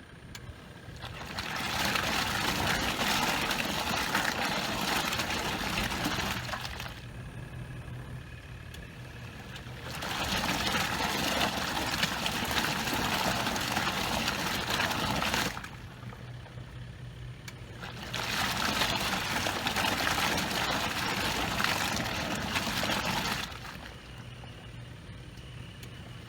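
Portable twin-tub washing machine agitating its load: water sloshes in three churning spells of about five seconds each, with short pauses between them as the agitator stops and reverses, over a steady low motor hum.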